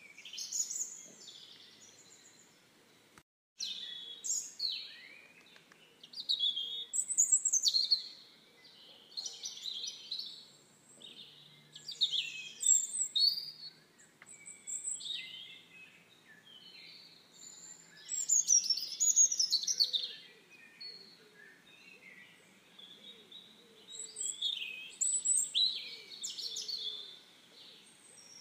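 Birds chirping and singing in short, bright, repeated phrases that come in bursts every couple of seconds. The sound cuts out completely for a moment a little over three seconds in.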